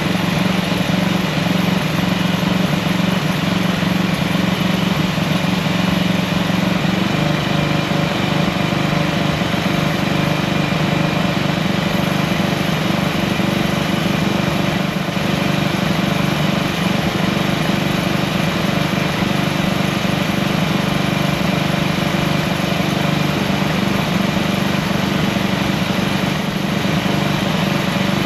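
A small engine or motor-driven machine running steadily at an even speed, with a slight change in its tone about seven seconds in.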